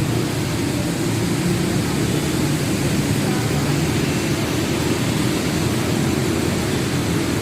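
Steady low rumble with an even hiss over it, the noise of a vehicle on the move.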